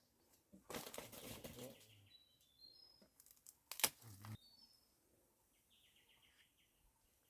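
Faint rustling for about a second, then a sharp click, against small birds chirping in short quick runs of high notes.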